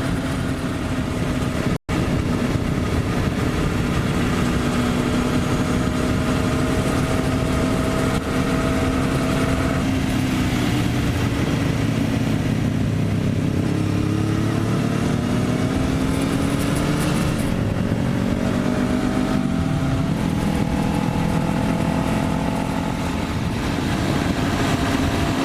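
Motorcycle engine running at road speed under heavy wind noise, its note steady at first, then shifting in several rising and falling glides midway before settling again. The sound cuts out completely for an instant about two seconds in.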